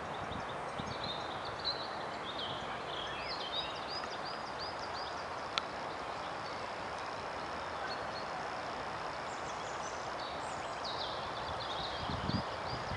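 Steady outdoor background rush with a small bird calling in series of short high chirps, one bout over the first few seconds and another from about ten seconds on. A single sharp click near the middle.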